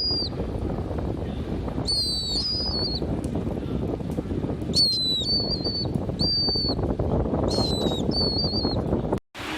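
A pet bird calling in short, high whistled phrases, several times with pauses between, each phrase jumping sharply in pitch, over a steady low rushing noise. The sound drops out briefly just before the end.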